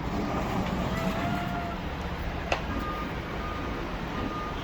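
A vehicle's reversing alarm beeping at an even pace, about one short beep every three quarters of a second, starting about halfway through, over steady dockside machinery noise, with a single sharp click just before the beeps begin.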